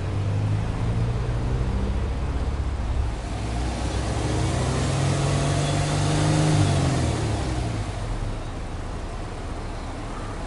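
Exhaust note of a Subaru Legacy 2.0R spec.B's EJ20 flat-four, revved without load: the engine pitch climbs over a few seconds, peaks about six and a half seconds in, then drops back to idle.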